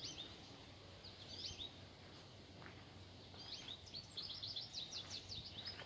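Small songbird singing faintly: phrases of short, high chirping notes, the longest a quick run of notes starting about three and a half seconds in.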